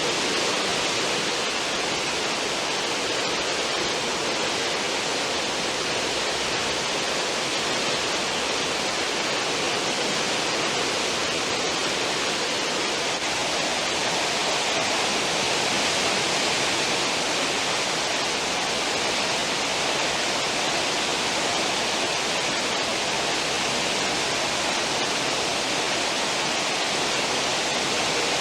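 Churning white water of a cruise ship's stern wake, rushing steadily as an even hiss with no breaks or changes.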